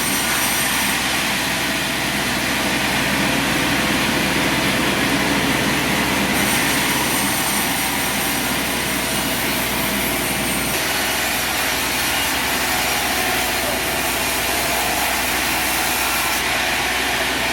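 Sawmill running steadily, its engine and saw making continuous machine noise. The sound shifts abruptly a few times.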